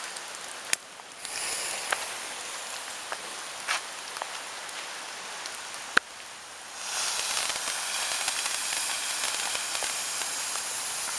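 Firework ground fountains (volcanoes) spraying sparks with a steady hiss and a few sharp cracks. The hiss grows louder about seven seconds in.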